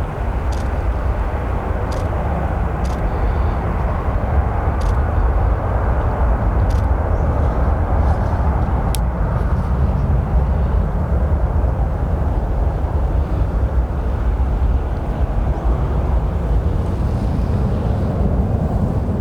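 Airbus A319 jet engines at take-off power, a steady low rumble as the jet climbs away.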